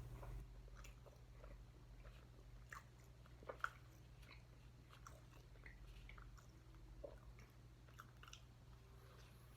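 A person chewing and biting food, faint mouth clicks scattered throughout, with one louder brief crunch about three and a half seconds in.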